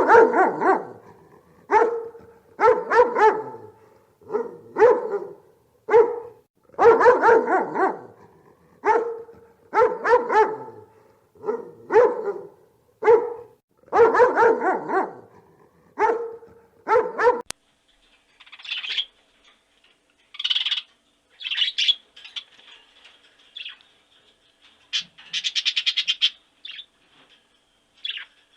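A dog barking over and over, single barks and quick runs of two or three, for about the first seventeen seconds. After a sudden cut, a bird takes over with high, short chirping calls, some in fast trills, for the rest.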